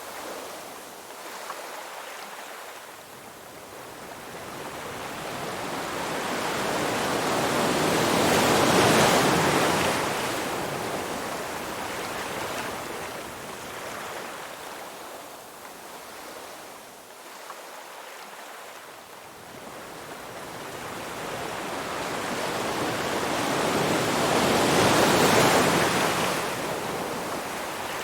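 Ocean surf: waves rush in and wash back in a steady hiss. Two big surges build to a peak, one about nine seconds in and another near the end, with quieter spells between them.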